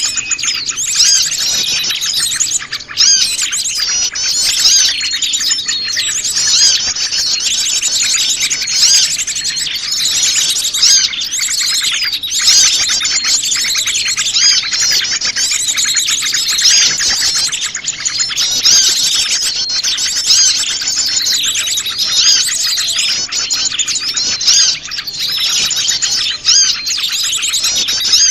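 A dense, noisy chorus of many small wild songbirds chirping, twittering and trilling over one another without pause: a mixed small-bird lure call used to draw birds in.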